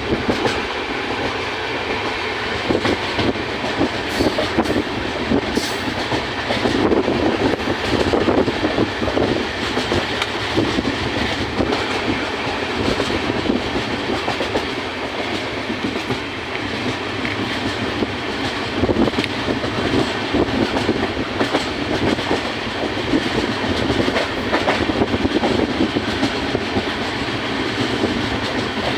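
Indian Railways train running on the track: a steady rumble of wheels and carriages with a clickety-clack from the rail joints.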